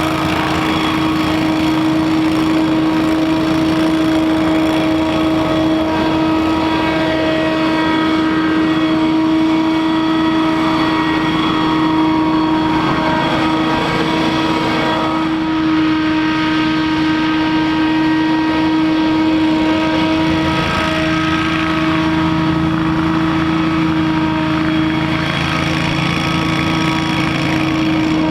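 Scag Windstorm stand-on leaf blower running steadily, its engine and fan giving one strong, unchanging whine over a rush of air.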